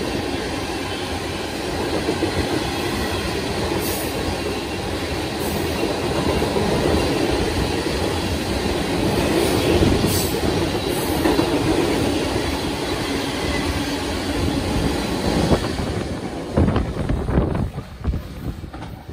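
Freight train of open-top ballast hopper cars rolling past close by, a steady rumble and clatter of steel wheels on the rails. Near the end the rumble falls away as the last car passes, leaving a few separate knocks.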